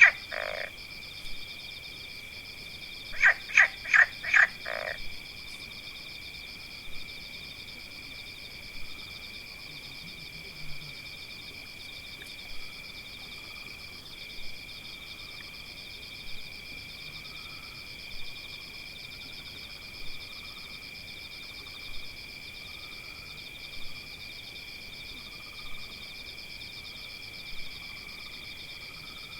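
Frogs croaking over a steady high-pitched chorus: a quick run of about four loud croaks about three seconds in, then a softer call repeating about every two seconds.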